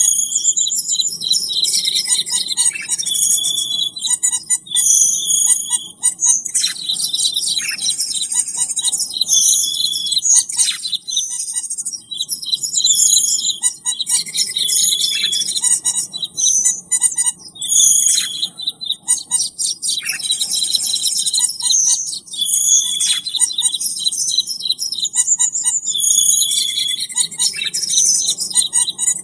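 Recorded cucak keling birdsong played as a bird lure: dense, rapid chirps and whistles in phrases that repeat over and over.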